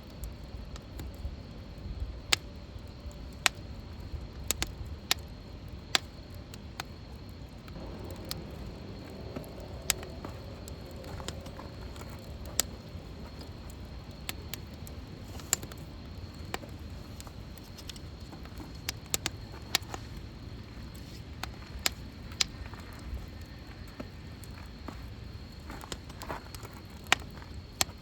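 Wood fire burning in a fire pit: irregular sharp pops and crackles, a few loud ones standing out, over a steady low rumble.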